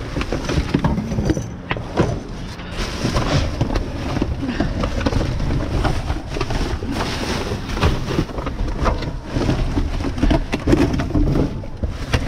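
Rummaging through discarded items: many small knocks, clatters and rustles of objects being handled and moved, over a steady low rumble.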